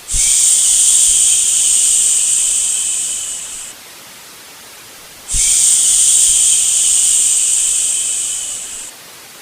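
Two long "shhh" shushes for soothing a baby, each about three and a half seconds. Each starts sharply and fades away at its end, with a short pause between them, over a faint steady white-noise hiss.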